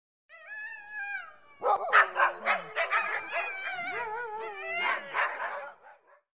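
Husky howling, its pitch wavering and gliding down. From about a second and a half in it breaks into a busier run of warbling howls mixed with short yips.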